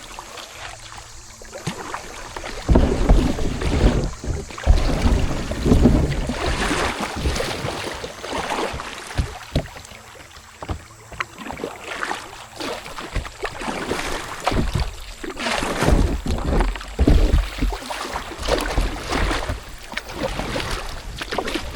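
Kayak being paddled and pushed through a shallow riffle. Irregular surges of splashing water come with knocks and scrapes from the boat and paddle.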